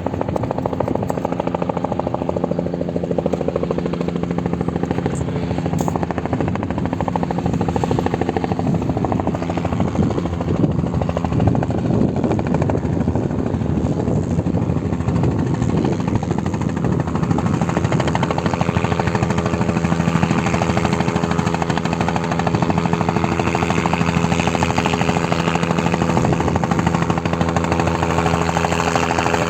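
Bell 505 Jet Ranger X helicopter running close by: rapid rotor-blade chop under a steady turbine whine. The whine grows stronger about two-thirds of the way in.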